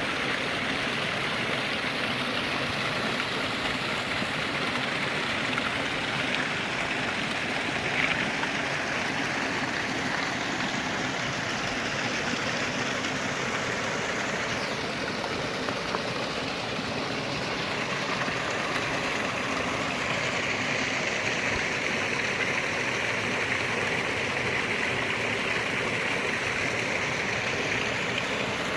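A waterfall's water pouring and splashing in a steady, unbroken rush.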